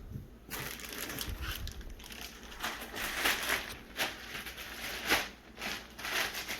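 Packaging being handled by hand as a box is unpacked: irregular crinkling and crackling of the box and its styrofoam packing as the contents are pulled out.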